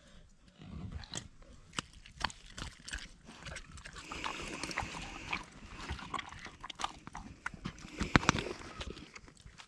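Close-up wet chewing and smacking of steak being eaten, irregular crunchy clicks and mouth noises, loudest about eight seconds in.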